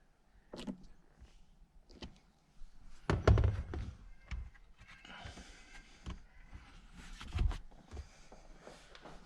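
Knocks and thunks of car interior parts being handled and fitted by hand, with a heavy thump a little after three seconds and another near seven and a half seconds, and a scraping, rustling stretch in between.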